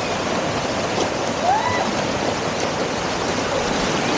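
Steady rush of waterfall water cascading and streaming. A faint distant voice calls out briefly about one and a half seconds in.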